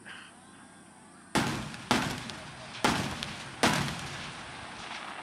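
Large aerial firework shells bursting: four loud booms in quick succession starting just over a second in, each trailing off in a rolling echo.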